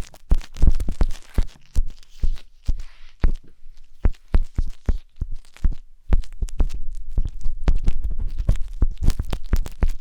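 Wooden tanghulu skewer scraping and tapping inside the silicone ear of a 3Dio binaural microphone: a dense, irregular run of crackly scratches and close thumps, with a steadier low rumble under them from about halfway through.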